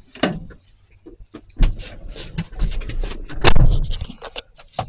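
Someone climbing into a pickup's cab before a cold start: clunks, scrapes and handling noise, with one loud bang about three and a half seconds in. The engine is not yet running.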